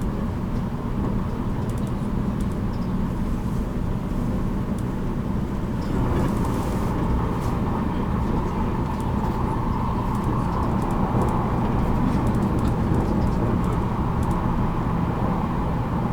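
JR Kyushu 783 series electric train running at speed, heard inside motor car MoHa 783-13: a steady rumble of wheels on rail and running gear. A higher-pitched band of running noise grows louder about six seconds in and stays up.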